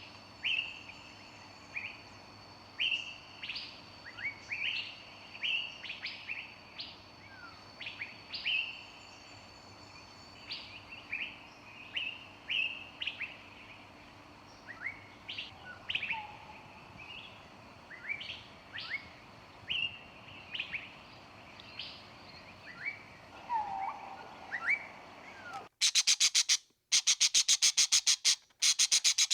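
Several birds chirping, with short sharp chirps and brief whistled notes coming every half second or so. About 26 seconds in, a much louder, rapid pulsing buzz cuts in suddenly and breaks off briefly twice.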